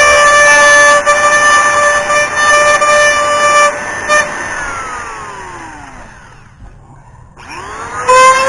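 Dremel rotary tool motor whining steadily at high speed, then switched off about four seconds in, its pitch falling as it spins down to a stop; near the end it is switched back on and the whine rises back up to full speed.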